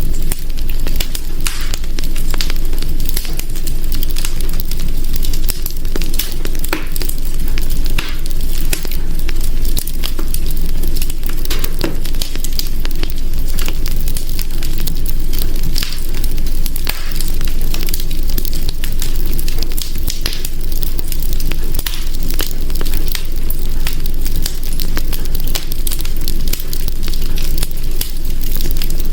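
Wood fire in a hearth crackling steadily, with frequent sharp pops and snaps over a low rumble of flames.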